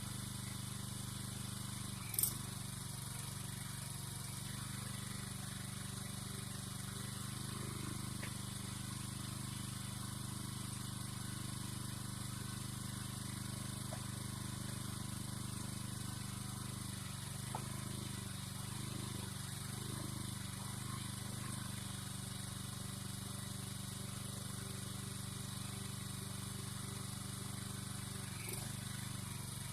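An engine running steadily at a constant speed. There is one sharp click about two seconds in.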